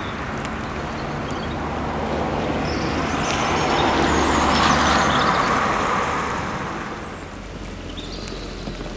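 A road vehicle passing by, its noise building to a peak about halfway through and then fading away. Faint bird chirps sound above it.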